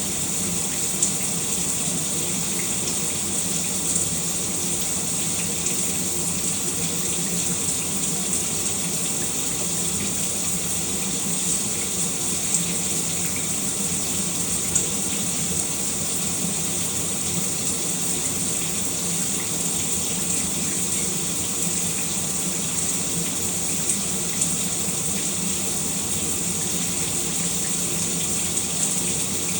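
Shower running steadily, a spray of water falling in an even hiss, with a few faint sharper spatters here and there.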